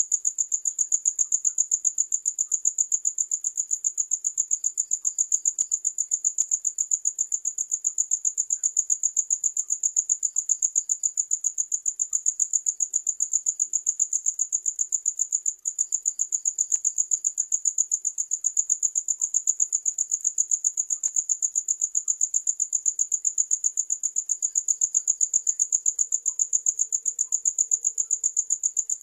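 Cricket chirping: a rapid, even, high-pitched pulsing that never lets up, broken once for an instant about halfway through.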